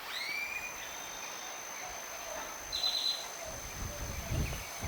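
Wetland ambience: a short rising bird call at the start and a brief high trill a little past the middle, over a steady thin high-pitched whine. Low rumbling comes in near the end.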